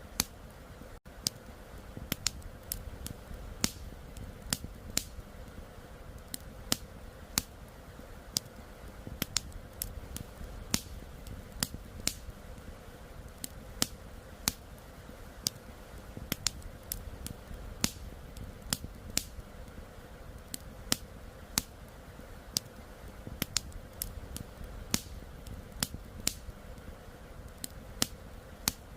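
Campfire crackling, with irregular sharp pops and snaps several times a second, over a steady low rush of flowing river water.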